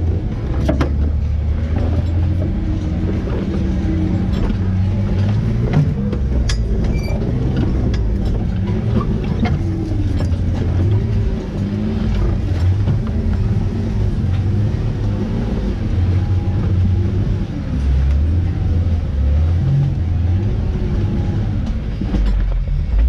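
Jeep engine running with a low drone whose revs rise and fall, with a few sharp knocks and clicks near the start and again about six seconds in.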